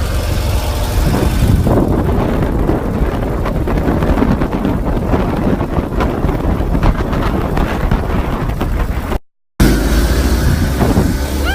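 Heavy wind buffeting the microphone and road noise while riding on a moving motorcycle. A steady, dense rumble, broken by a short silent gap about nine seconds in.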